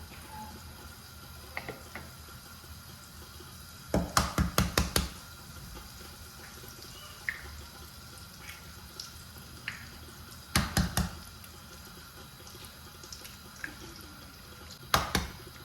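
Kitchen work: three bursts of quick, sharp knocks, each lasting about a second, over a faint steady hiss that may be water running, with a few scattered single clicks in between.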